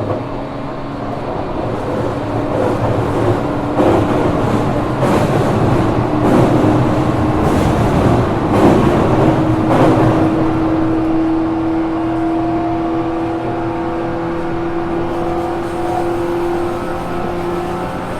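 Running sound inside a JR Kyushu 415 series 1500 subseries EMU motor car, a car noted for an unusual noise: the traction motors and gearing hum with a steady whine that steps up slightly in pitch around the middle and then holds. Rail joints clatter under the car several times in the middle stretch.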